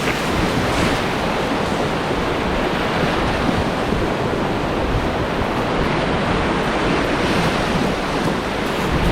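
Steady rush of river water flowing around the boat, with wind buffeting the microphone.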